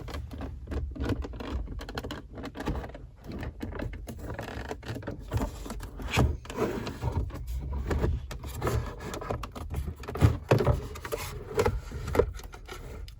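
Irregular knocks, taps and scrapes of hard plastic as a BMW 3 Series instrument cluster, padded with felt tape, is pushed and worked into its dash opening, still not seating fully at the bottom. The sharpest knock comes about ten seconds in.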